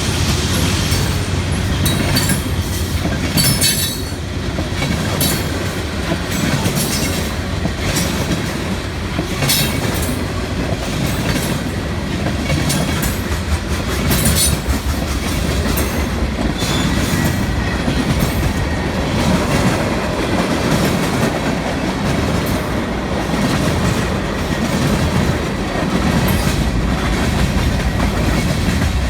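CSX mixed freight train rolling past, a steady rumble with the wheels clicking over rail joints again and again.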